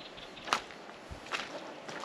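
Footsteps crunching in snow: three steps, the first the loudest.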